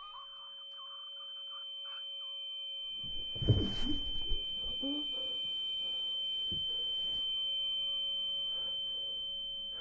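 A steady, high-pitched electronic sine tone with fainter, lower steady tones beneath it. It swells slowly and fades toward the end. A low thump and some rustling come about three and a half seconds in.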